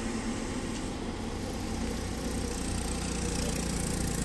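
Heavy vehicle engine, such as a bus, running steadily at low revs, a low hum that gets a little louder after about two seconds.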